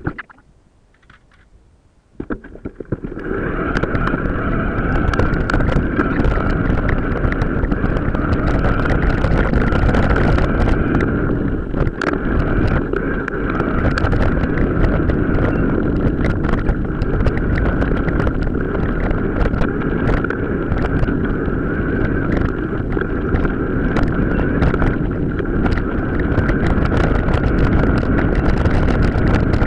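Off-road bike ride sped up four or five times: after about two seconds of quiet, a loud continuous rushing noise of riding and wind on the microphone, with many quick clicks and knocks from the bike on rough ground.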